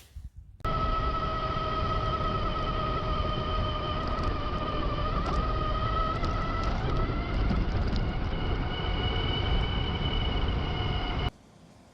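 UBCO electric motorbike being ridden along: a steady, high motor whine over heavy wind rush. It starts suddenly just under a second in and cuts off suddenly near the end.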